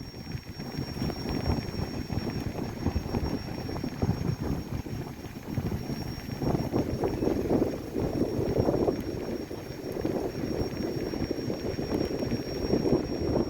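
Wind buffeting the microphone: a gusty low rumble that swells and eases every second or two.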